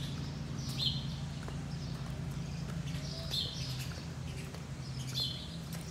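Birds chirping, short high calls every second or two, over a steady low hum.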